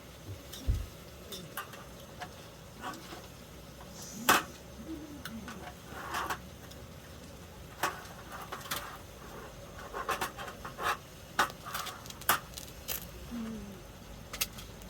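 Scattered sharp clicks and knocks at irregular intervals, with a low thump just under a second in.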